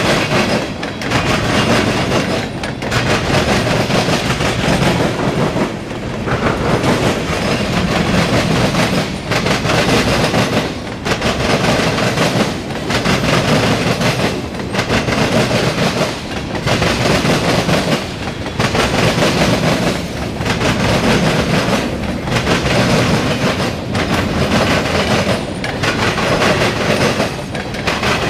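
Freight cars of a CSX mixed freight train rolling past, steel wheels clacking over the rail joints. The sound is loud and rises and falls in a regular rhythm about every two seconds as car after car goes by.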